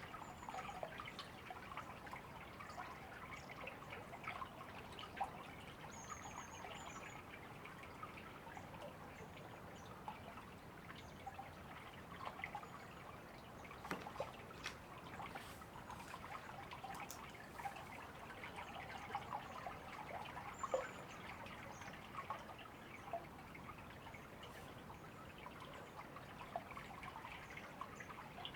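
A river trickling and babbling steadily, with a few faint, short, high bird chirps now and then.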